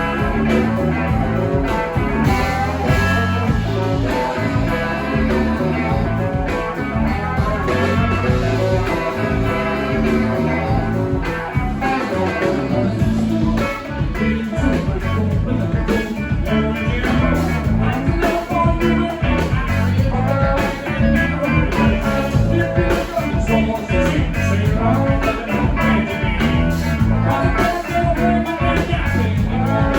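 A live rock band playing a bluesy instrumental passage led by electric guitar, over steady bass and drums.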